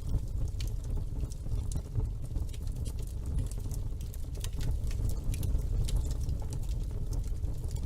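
Wood fire burning in a fireplace: a steady low rumble of the flames with many sharp, irregular crackles and pops from the logs.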